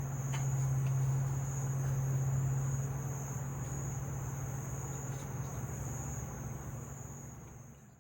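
Insects chirring steadily in a high, unbroken band, over a steady low hum that is the loudest sound; both fade away near the end.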